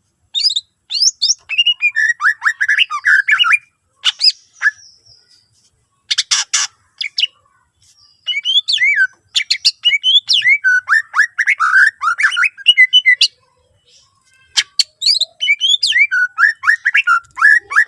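Green leafbird (cucak ijo) singing a fast, chattering song of rapid whistled and chirping notes full of mimicked phrases. It sings in three bouts with short pauses between them.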